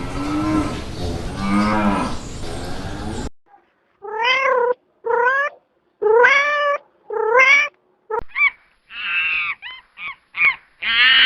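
Cat meowing: four separate meows about a second apart, each rising in pitch, then a quicker run of shorter meows near the end. Before them, for about the first three seconds, low animal calls sound over steady background noise.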